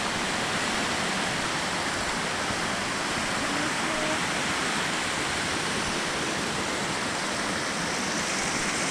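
Creek water rushing steadily, a continuous even wash of running water.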